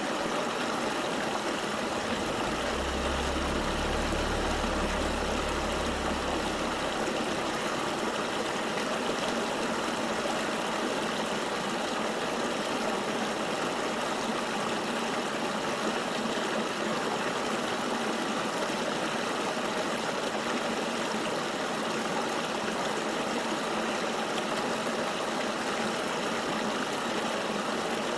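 River water flowing steadily, an even rushing hiss. A low rumble joins it about two seconds in and fades out by about seven seconds.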